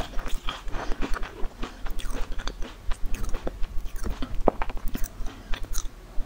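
Close-miked chewing of crunchy food: a quick, irregular run of crisp crunches.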